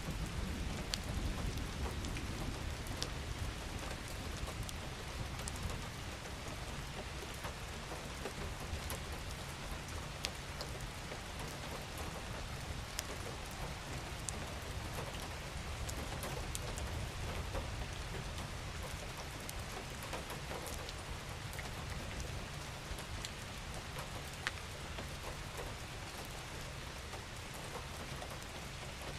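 Steady rain with many separate drops ticking on a surface, over a low rumble that is strongest in the first few seconds.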